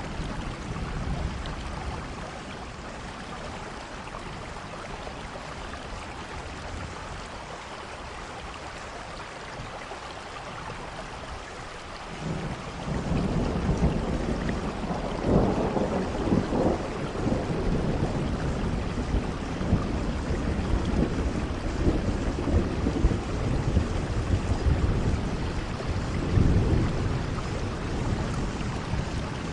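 Steady rain falling, with a long roll of thunder that swells up about twelve seconds in and rumbles on, surging again near the end.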